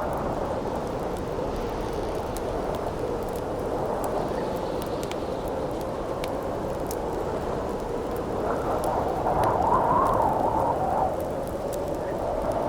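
Howling wind over a crackling campfire: a steady, wavering wind noise with scattered sharp crackles from the burning wood. A stronger, higher-pitched gust swells a little past the middle and then falls back.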